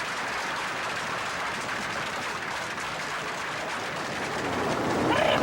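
Audience applauding steadily, with music starting to come in near the end.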